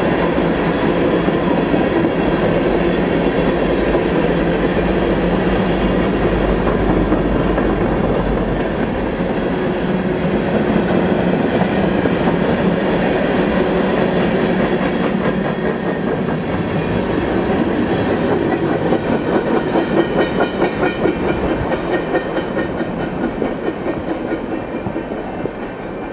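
Freight train cars rolling past, wheels clicking over the rail joints in a steady rhythm that grows plainer a little past the middle, then fading as the train moves away near the end.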